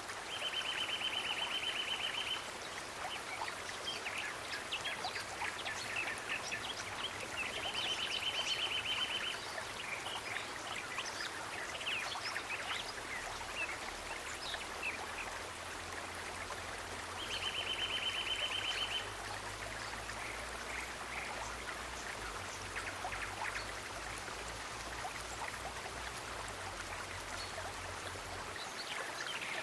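Nature ambience: a steady, stream-like rush of water, over which a high buzzy trill sounds three times for about two seconds each, with scattered short chirps between.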